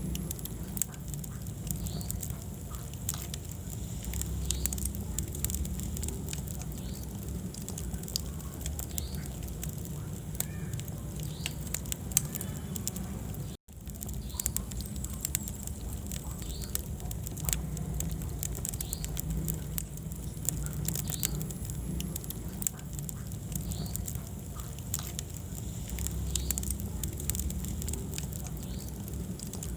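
Wood fire burning in a fireplace: steady crackling with scattered sharp pops over a low rumble of flames. The sound cuts out for an instant about halfway through.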